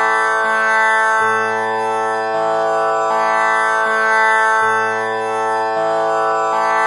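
Tanpura drone tuned to A, its strings plucked one after another about once a second. Each note rings on into the next with many overtones, making a continuous drone.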